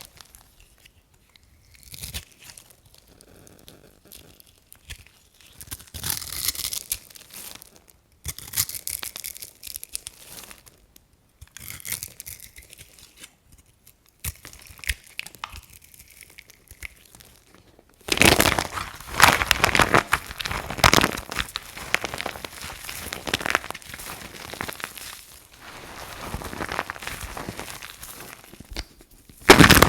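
Dry soap crunching and crumbling: separate short crunchy bursts with pauses between them, then a dense, continuous run of crunching from a little past halfway, ending in one sharp loud crunch.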